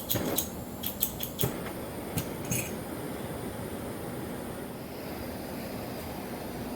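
A handful of sharp clicks and knocks as a handheld propane torch is readied and lit, then the torch flame's steady hiss.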